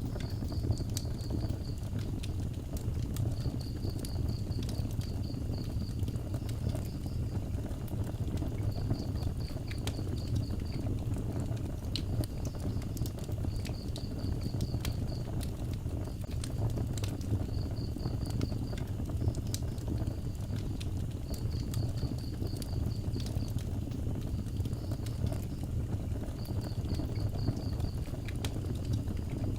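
Wood fire burning, with scattered crackles and pops over a steady low rumble of the flames. A high, pulsed chirping repeats every few seconds alongside it.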